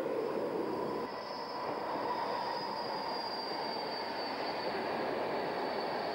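An electric-hauled passenger train, a DB Class 103 locomotive with its coaches, running past: a steady rumble of wheels on the rails with a high whine that falls slowly in pitch. About a second in the sound cuts over from another passing train.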